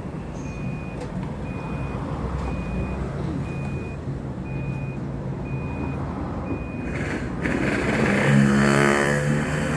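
A vehicle's reversing alarm beeps about once a second over a low engine hum, stopping about seven seconds in, after which the engine grows louder with its pitch shifting.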